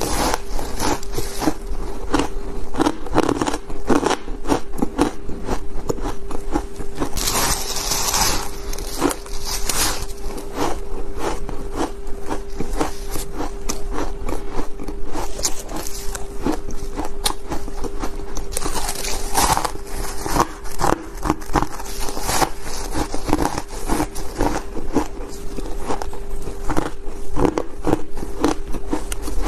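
Ice being bitten and chewed close to the microphone: a dense, continuous run of crunches and crackles, with louder crunching bites about 7 and 19 seconds in.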